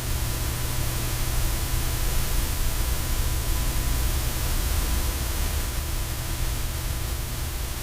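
Steady static-like hiss spread across all pitches, with a low hum beneath and a faint steady tone; it cuts off suddenly at the end.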